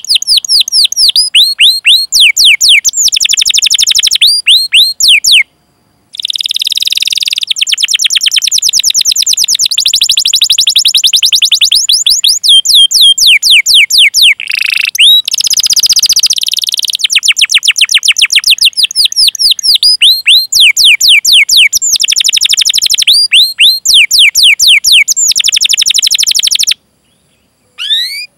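Domestic canary singing long rolling trills of rapid, repeated 'cuit' notes that each sweep downward in pitch, about ten a second, with a short break about five and a half seconds in and another near the end.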